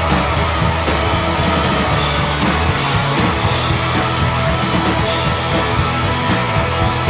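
Rock music from a full band: distorted electric guitars over bass and drums, with regular cymbal hits, playing steadily and loudly.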